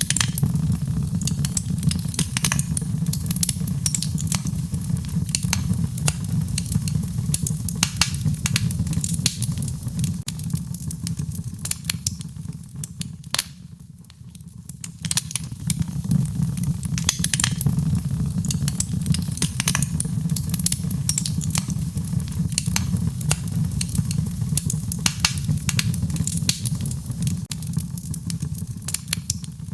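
Fire in a fireplace crackling and popping, with many sharp irregular snaps over a steady low rumble of the flames. The crackling thins out and quietens briefly about halfway through, then picks up again.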